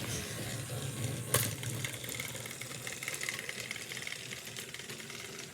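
Small battery motors of toy train engines whirring steadily as they run against each other, with one sharp click just over a second in.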